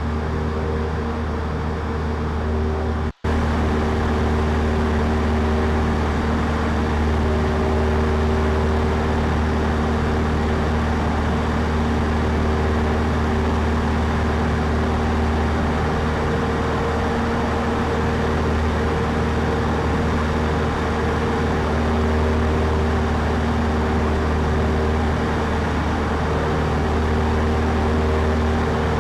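Cessna 152's four-cylinder Lycoming O-235 engine and propeller droning steadily in cruise flight, heard inside the cockpit as a deep, constant hum. The audio cuts out for an instant about three seconds in.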